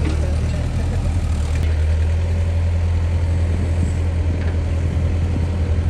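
Mini excavator's diesel engine running steadily with an even low hum.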